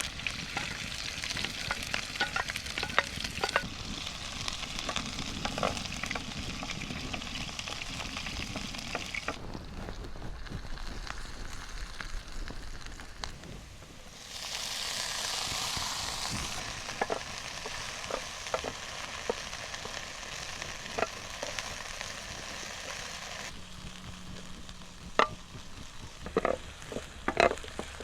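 Food sizzling in a frying pan while being stirred, with a spatula clicking and scraping against the pan. The sizzle fades for a few seconds, comes back louder, and near the end a few sharper knocks of the utensil on the pan stand out.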